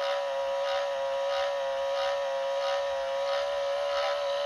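Small electric motor in a 1995–99 Chevy truck/Suburban power side mirror running steadily, tilting the mirror glass up: a steady whine with a regular pulse about every two-thirds of a second.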